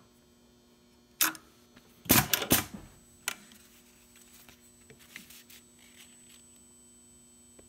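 Mechanical clicks and clunks from a SEWPRO 1765 double-needle post-bed sewing machine as its controls are worked, with no stitching: one sharp click about a second in, a quick cluster of louder clicks a second later, another click soon after, then a few faint ticks. A low steady hum sets in with the first click.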